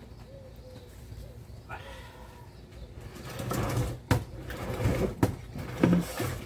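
Rustling and clicking of parts and tools being handled, with a few sharp clicks in the second half. A short faint pitched sound comes about two seconds in.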